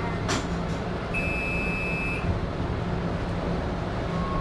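Light rail train's door warning tone: one steady electronic beep about a second long, over the car's constant low rumble. A brief hiss-like burst comes just before it.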